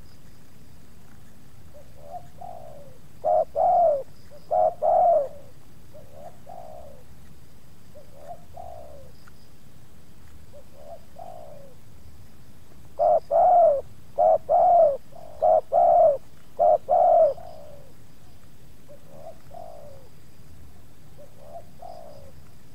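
Spotted doves cooing. There are two bouts of loud, slightly falling coo notes, one a few seconds in and a longer one about halfway through, with fainter coos in between.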